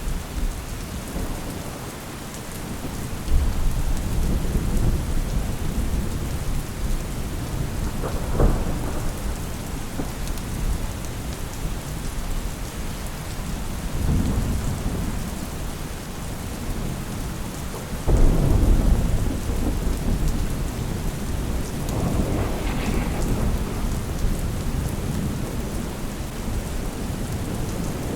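Steady rain with repeated rolls of thunder swelling and fading every few seconds; a sharper crack of thunder comes about 8 seconds in and a sudden louder rumble about 18 seconds in.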